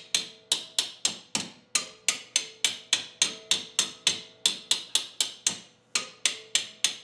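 Hand hammer striking steel in a steady rhythm, about three or four blows a second, each with a short metallic ring, pausing briefly about six seconds in. The blows are driving a broken, rusted bolt out of a VW Beetle's torque rod housing.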